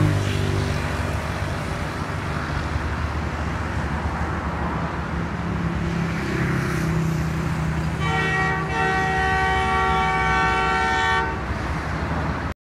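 Train with a diesel locomotive rumbling steadily, then a locomotive horn sounding one steady blast of about three seconds, starting about eight seconds in.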